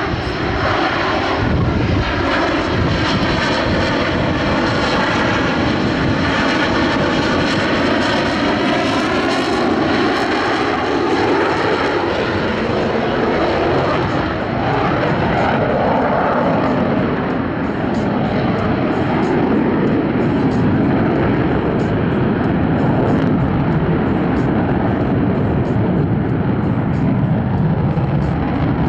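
Two Boeing F/A-18 Super Hornets, each with twin GE F414 turbofans, flying a slow, high angle-of-attack pass. The jet noise is loud and steady, with a sweeping, phasing whoosh through the first ten seconds as they pass.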